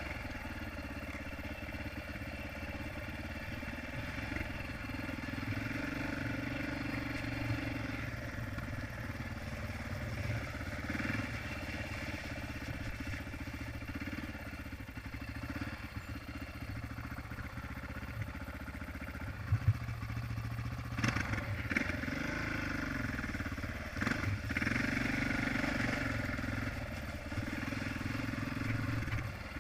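Honda XR650R dirt bike's single-cylinder four-stroke engine running under way, its note rising and falling with the throttle. A few sharp knocks come about two-thirds of the way through.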